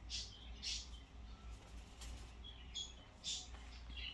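Pet bird giving several short, high-pitched chirps, spaced irregularly.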